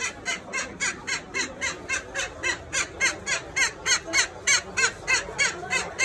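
A bird calling over and over in a quick, even series of short squawks, about four a second.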